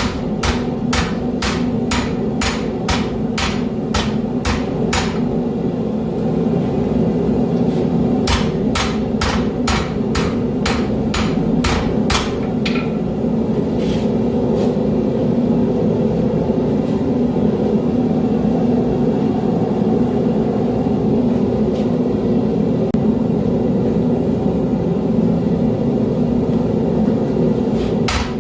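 Hand hammer striking hot steel on an anvil while forging a knife blade, in quick runs of ringing blows about two to three a second, with a short pause after about five seconds. The blows thin out to a few single strikes and stop after about fifteen seconds, leaving a steady low rushing noise that runs under the whole stretch.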